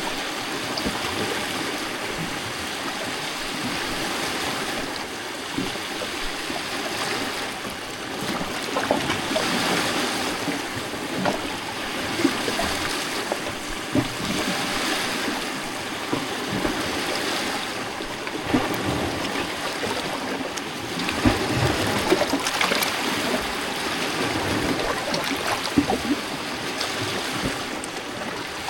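Small lake waves lapping and sloshing among shoreline rocks, with gurgling water and small splashes. The water rises and falls in uneven swells every few seconds.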